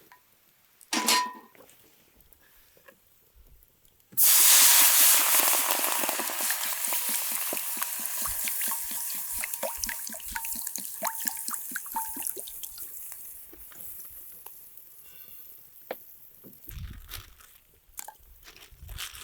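A short knock about a second in, then food or liquid going into a hot pan: a sudden loud sizzle with fast crackling pops that slowly dies down.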